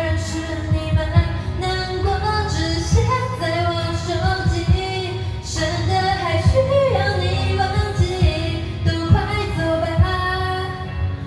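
A woman singing a slow Mandarin-language pop ballad over a karaoke backing track with a soft, regular beat.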